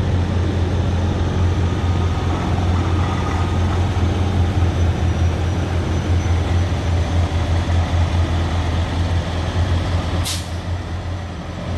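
Semi-truck's diesel engine running with a steady low drone, and a short sharp hiss of air brakes about ten seconds in.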